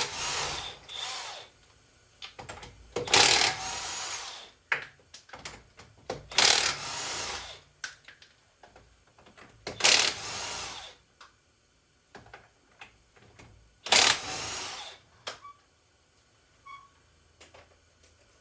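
Power impact wrench with a 19 mm socket spinning off the wheel's lug nuts: five short bursts of about a second each, a few seconds apart, with small clicks and clatter of the nuts between them.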